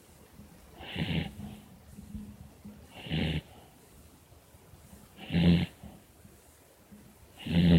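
A sleeping pet dog snoring, four snores about two seconds apart.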